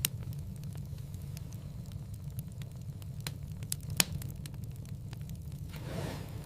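Wood fire crackling in a fireplace: a steady low rumble of flames with scattered small crackles, a sharp pop at the start and a louder one about four seconds in, and a soft rush of flame near the end.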